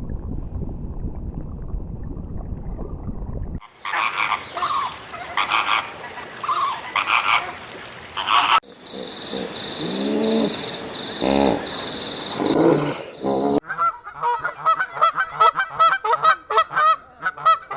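Animal sounds in a run of short clips, changing every few seconds: first a low rumbling noise, then repeated loud calls, then calls over a steady high hiss, and last a quick series of pulsed calls.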